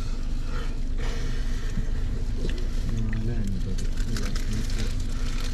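People talking over a steady low rumble and hum.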